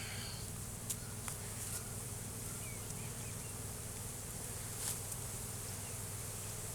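Honey bees buzzing steadily as a low hum around an opened hive, stirred up enough that they are getting upset. A few faint light clicks sound over the hum.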